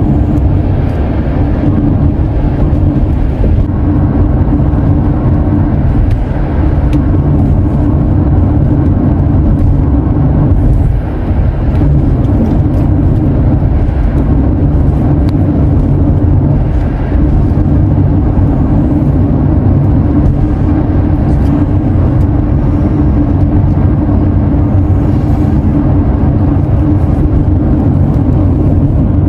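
Car driving along a road, heard from inside the cabin: a loud, steady, low rumble of engine and tyres.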